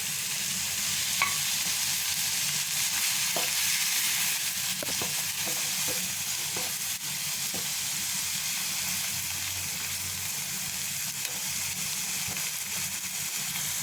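Chopped onions sizzling as they fry in melted butter in a pan over a low flame, stirred with a few light taps of the utensil against the pan in the first half.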